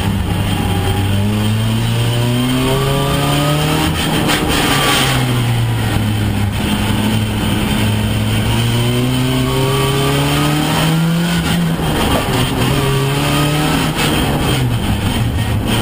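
Opel Astra F's four-cylinder engine heard from inside the cabin, revving hard under load: its pitch climbs steadily over several seconds, drops back about four seconds in and again about eleven seconds in, and climbs again each time.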